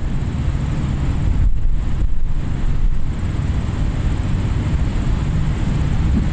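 Steady low rumble of vehicles on a highway, with no single event standing out.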